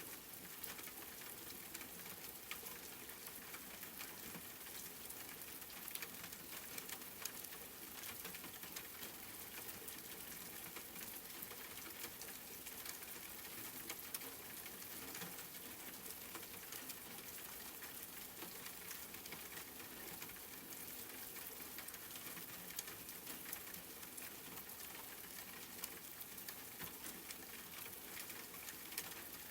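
Steady rain falling: an even hiss of many drops, with scattered sharper ticks of single drops hitting a surface.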